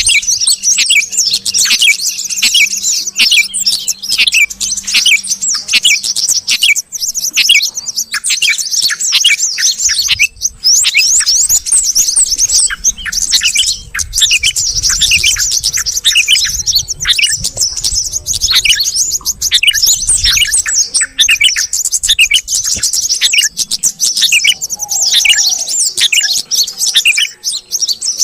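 Yellow-vented bulbul and sooty-headed bulbul calls mixed as a bird-lure recording: dense, rapid, overlapping chirping and chattering with no break. A low rumble sits beneath the calls for several seconds in the middle.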